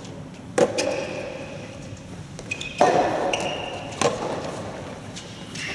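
A soft tennis rally: the rubber ball is struck sharply by the rackets three times, about two seconds and then a second apart, each hit echoing through a large indoor hall.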